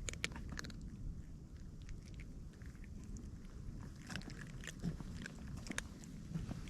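A cat crunching dry food, with irregular crisp bites and chews.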